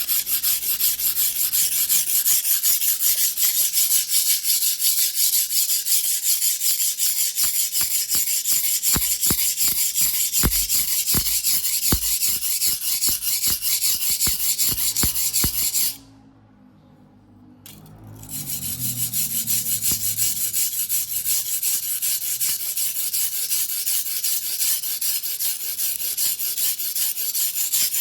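Single-bevel sashimi knife (Mizuno Tanrenjo white-steel fuguhiki, 270 mm) ground by hand on a whetstone, in rapid back-and-forth rasping strokes, stopping for about two seconds near the middle before carrying on.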